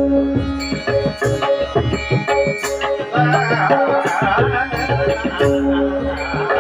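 Instrumental bhajan music: a harmonium holding steady chords over a hand-played drum, with small hand cymbals ringing on the beats.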